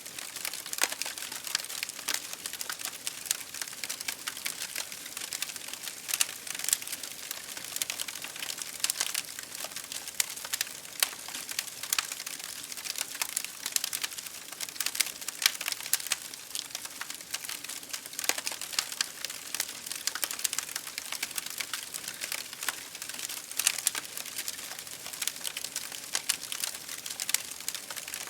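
Wood fire crackling in a fireplace, with rain on window glass: a continuous hiss dotted with dense, irregular pops and ticks.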